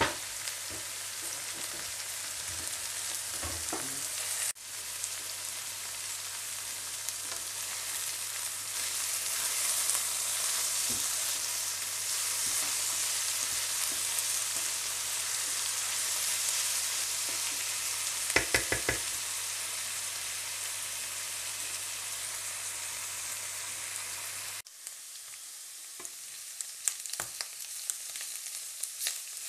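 Sliced russula mushrooms and green onion sizzling in oil in a nonstick frying pan, with a wooden spatula stirring and knocking against the pan. A quick run of taps comes about two-thirds of the way in; about five seconds before the end the sizzle quietens and the separate spatula strokes stand out.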